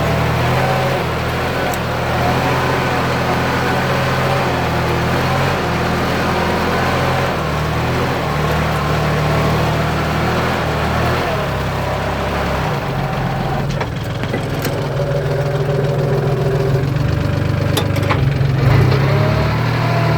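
Kubota tractor's diesel engine running steadily while ploughing a wet rice paddy, its note shifting about two-thirds of the way through.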